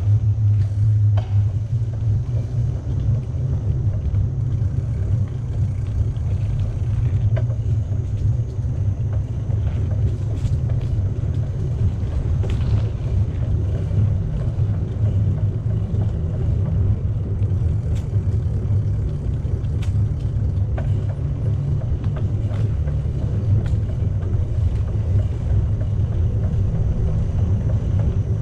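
Steady low rumble of a bicycle being ridden, wind and tyre noise on the camera microphone, with a few faint clicks and rattles.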